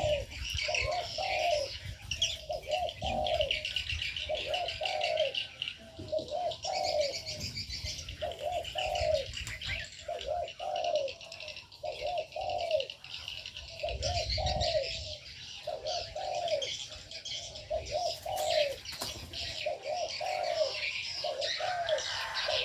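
Doves cooing over and over, a short falling coo about once a second and often in pairs. Small birds chirp and trill steadily above it.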